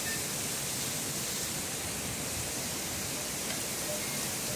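Very heavy wind-driven rain pouring down in a steady, even hiss.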